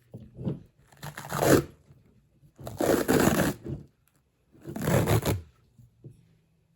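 Self-adhesive vet tape being pulled off its roll and stretched around PVC pipe: three pulls, each about a second long.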